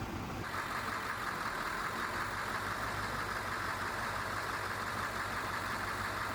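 An engine running steadily at idle, with a steady hiss over it that sets in about half a second in and cuts off sharply near the end.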